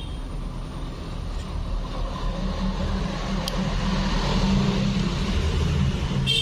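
A motor vehicle running, a steady low hum that grows louder in the second half, with a light click about three and a half seconds in.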